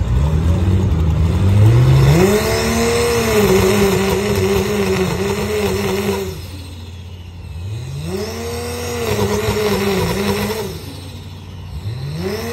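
Drag car engine at the starting line revving up, holding a steady speed for several seconds, then dropping back. This happens twice, and a third rev-up starts near the end. The repeated rev-ups come as the car will not go onto the trans brake.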